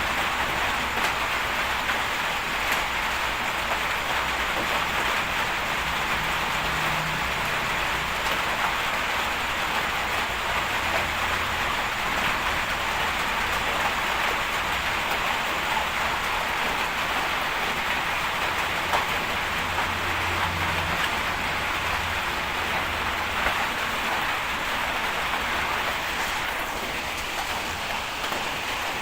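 Heavy bulldozer's diesel engine running under a steady hiss, its low rumble swelling a little twice.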